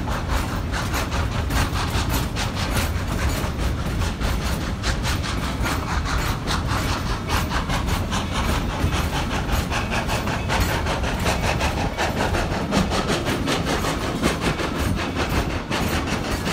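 Narrow-gauge train heard from an open passenger car: wheels clattering and clicking over the track with a steady low rumble.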